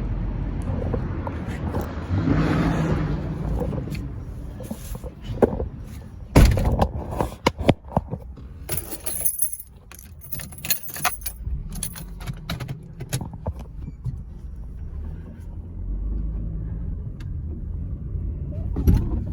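Car running with a steady low rumble. In the middle comes a run of sharp clicks and jangling rattles lasting several seconds.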